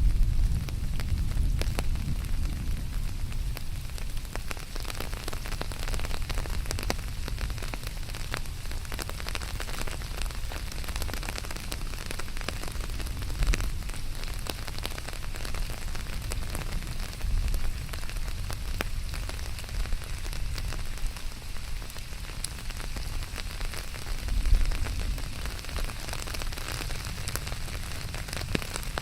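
Steady rain falling on surfaces: a dense hiss of countless small drop ticks over a low rumble that swells briefly several times.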